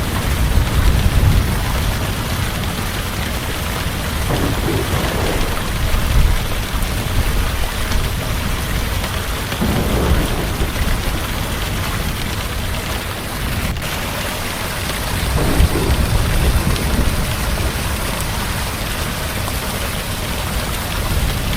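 Heavy steady rain with low rolling thunder swelling up several times, and one sharp tick about two-thirds of the way in.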